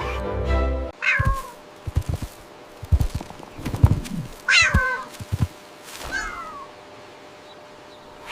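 Background music that stops about a second in, followed by a cat meowing three times, each meow falling in pitch, with a few low thuds in between.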